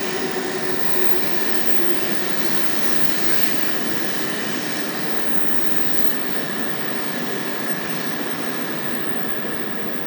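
Shinkansen train running slowly along the platform, a steady rumble and rush with a motor whine that drops slightly in pitch as it slows, gradually getting quieter.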